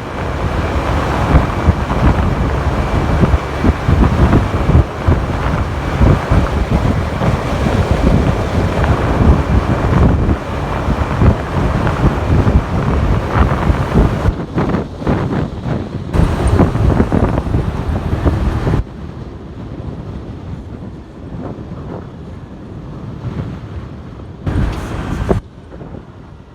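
Wind buffeting the microphone of a moving motorcycle, over engine and road noise. About two-thirds of the way in the level drops suddenly, leaving a quieter steady rumble of engine and traffic, with a brief louder swell near the end.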